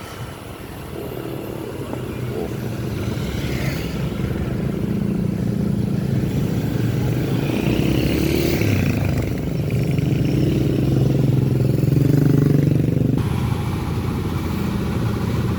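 A motor vehicle engine running close by. It grows louder over the first few seconds, then holds steady, with a brief rise and fall around the middle.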